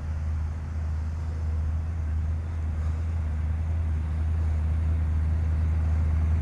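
Car engine rumbling steadily at low speed, slowly growing louder as the car approaches.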